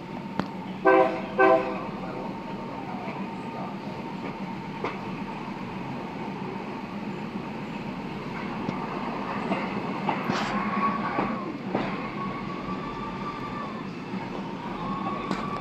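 A train horn sounds two short blasts about a second in. The train then runs along the track with steady rail noise and light clickety-clack, and a high steady squeal starts about ten seconds in.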